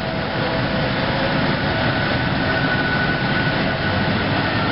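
Passenger train standing at the station platform, giving a steady rushing hum with two faint, unchanging tones, as it waits to pull off.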